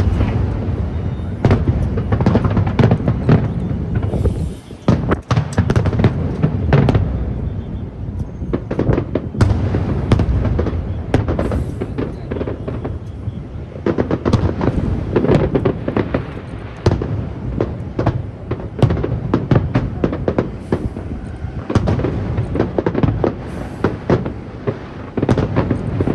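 Aerial fireworks display: a rapid, near-continuous barrage of sharp bangs and deeper booms, easing briefly about five seconds in.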